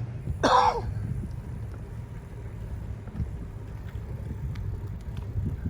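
Steady low rumble of wind and riding noise on a bicycle ride, with a short, loud voice-like sound about half a second in and a few faint ticks.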